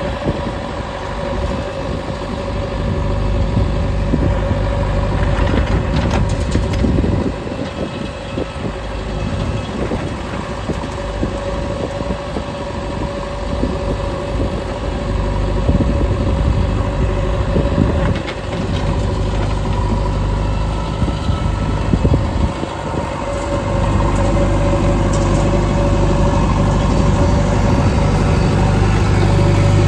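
Diesel engine of a JCB 3DX backhoe loader working, its note rising and falling unevenly with the load of digging and loading. For the last several seconds it settles into a steadier, louder hum.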